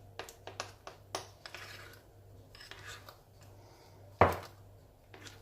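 Kitchenware being handled on a worktop: scattered light clicks and taps of dishes and utensils, with one louder knock about four seconds in.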